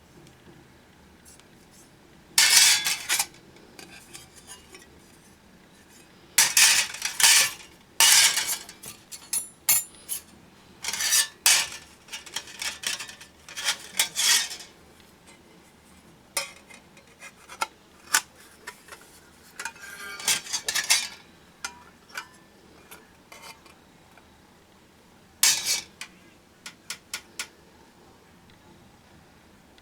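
Thin titanium sheet-metal parts of a folding fire pit clinking and clattering as they are handled, in irregular bursts of sharp metallic knocks with quiet gaps between.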